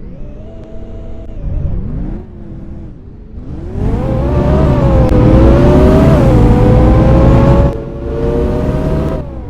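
Scania K230UB city bus's five-cylinder diesel engine accelerating through its automatic gear changes: the engine note climbs and drops back twice. About four seconds in it grows much louder and keeps rising under hard acceleration for about four seconds, then falls back.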